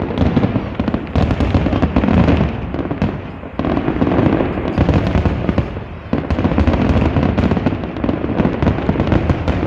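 Fireworks display going off in a dense, continuous barrage of bangs and crackles. There are brief lulls about three and a half and six seconds in.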